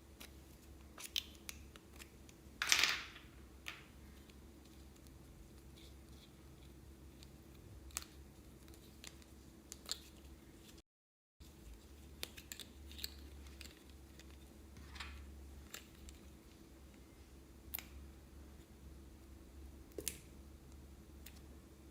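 Quiet handling sounds of plastic piping bags and slime: scattered small clicks and taps, with one louder rustling burst about three seconds in.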